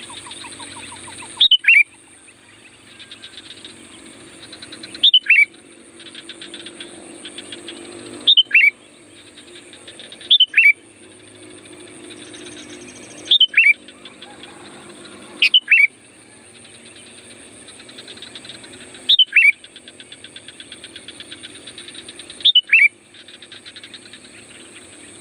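Sooty-headed bulbul (kutilang) calling: a loud, quick two-note phrase that slides downward, repeated about every three seconds, eight times. Between phrases there is a softer, fast chattering, over a steady high hiss.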